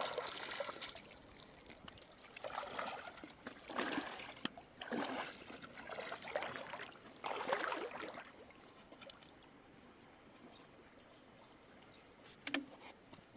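River water trickling and splashing in irregular surges, settling quieter after about eight seconds, with two sharp knocks near the end.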